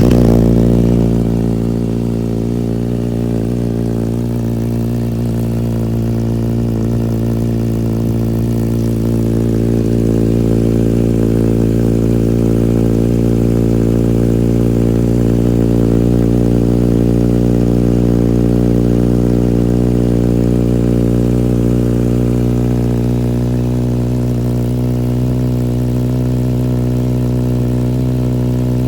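A 2020 Kawasaki ZX-6R's inline-four with a Graves aftermarket exhaust idling steadily just after a cold start. It is loudest right after it catches and settles within a second or two to an even idle.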